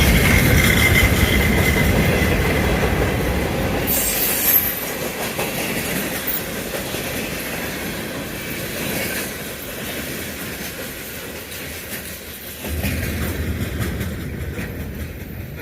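Freight train's cars rolling past on the rails, with a high wheel squeal at the start. The rumble fades steadily as the train moves away, swelling briefly again near the end.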